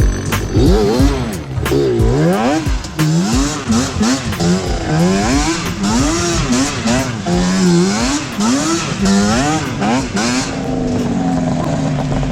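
Dirt bike engine revving up and down over and over, about twice a second, as it is ridden hard, with sharp knocks throughout; near the end it settles to a steadier note.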